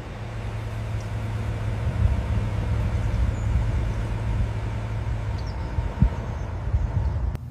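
Car engine running steadily with a low hum, with a couple of short knocks.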